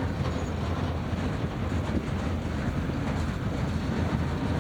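Freight train rolling past, its cars making a steady rolling noise on the rails.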